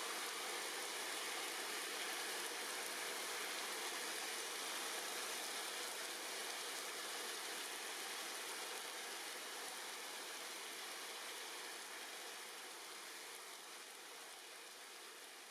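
Steady rain falling on tree leaves, an even hiss, fading gradually over the last few seconds.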